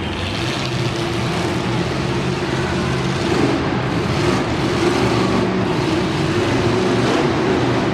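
Monster truck engine running steadily and loudly.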